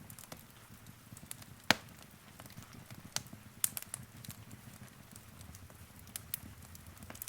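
Wood fire crackling in a fireplace: irregular sharp pops and snaps, one loud pop nearly two seconds in, over a soft low rumble of the flames.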